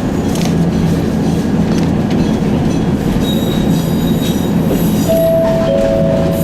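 Echizen Railway train running, heard from inside the car: a steady rumble of wheels and motor. A high thin squeal comes in about three seconds in, and two clear steady tones join about five seconds in.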